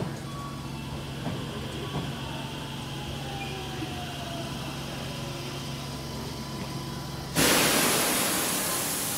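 Tokyo Metro 08 series electric train slowing to a stop at the platform: a steady hum with a faint falling whine from the traction motors and a few wheel clicks. About seven seconds in, a sudden loud hiss of compressed air from the brakes as the train halts, slowly fading.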